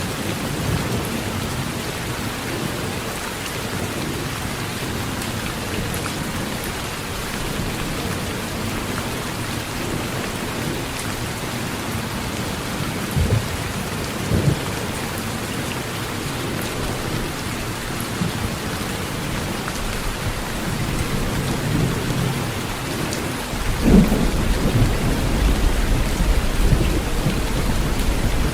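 Heavy rain beating steadily on a metal roof, with thunder: two short low rumbles about halfway, then a long rolling rumble starting near the end.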